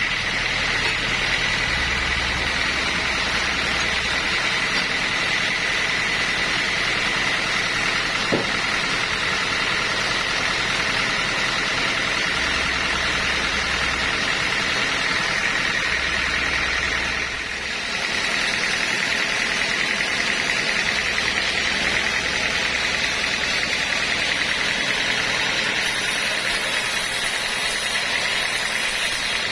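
Sawmill machinery running steadily, a continuous mechanical drone that dips briefly a little past halfway.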